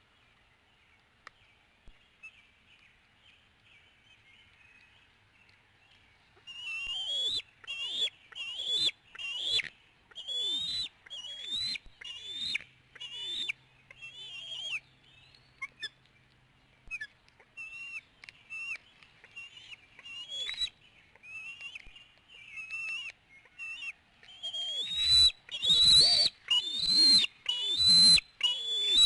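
Bald eagles calling at the nest: a long series of short, high, squealing calls, about one or two a second. They start about six seconds in and grow louder near the end.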